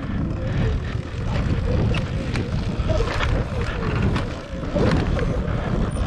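Wind rushing over the microphone with repeated knocks and rattles from an electric dirt bike jolting over a rough, rutted track, and a wavering whine underneath; the suspension is taking hard hits.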